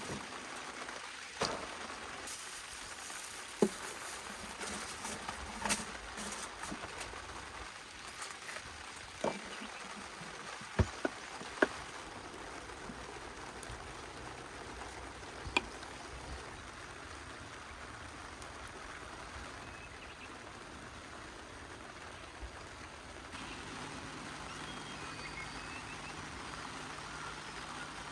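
Steady rain hiss with scattered sharp knocks and taps, the loudest two close together about eleven seconds in.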